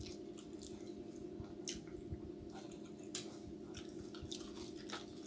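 Close-up chewing and wet mouth sounds of a person eating by hand, with scattered short clicks and smacks. A steady low hum runs underneath.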